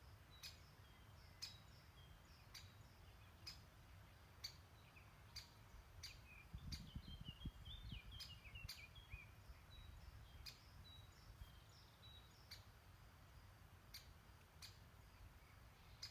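Faint woodland birdsong: a sharp tick call repeating about once a second, with twittering chirps from other birds in the middle. A low rumble swells briefly about halfway through.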